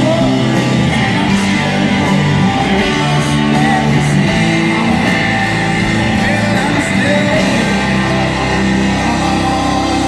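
Live rock band playing loudly, with singing over guitars, bass and drums.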